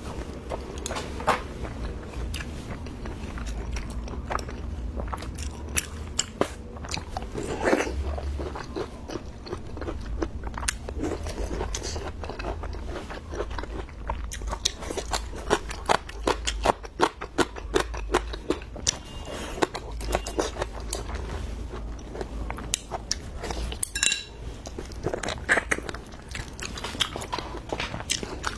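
Close-miked eating: wet chewing with many short, crisp crunching bites.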